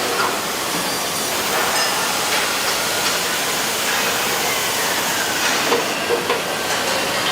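Steady hissing machinery noise of a truck factory floor, with scattered light clicks and knocks and a faint falling whine partway through.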